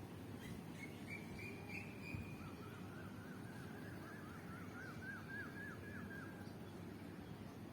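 A bird calling: a short high note, then a run of quick repeated chirps that speed up over about four seconds, over a steady low rumble.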